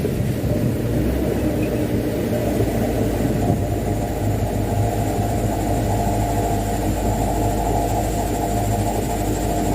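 Mitsubishi Canter dump truck's diesel engine running steadily, with a faint high whine joining about three and a half seconds in.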